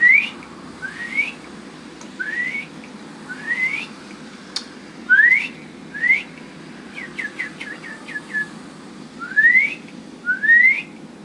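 A woman whistling an imitation of a bird call: a series of clear, rising slurred whistles, about one a second. Partway through comes a quick run of about six short notes, then more rising whistles.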